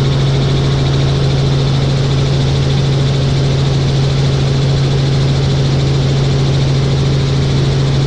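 Helicopter heard from aboard in flight: a loud, steady drone of engine and rotor, with a strong constant low hum under it.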